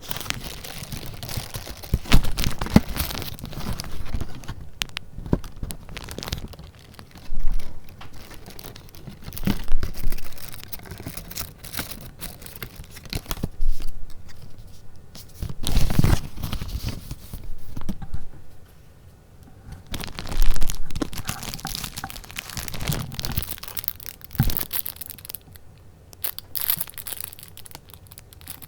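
Paper and paper goods being handled: irregular rustling and crinkling, with sharp taps and louder swells every second or two.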